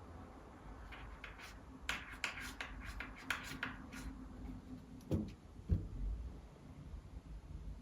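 A flurry of light clicks and taps, then two dull thumps a little over half a second apart.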